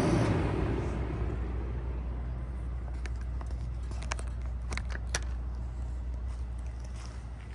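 2001 Bard 5-ton wall-hung heat pump shutting down in heat mode: the rush of its running fan fades away in about the first second, leaving a low steady hum with a few sharp clicks around the middle.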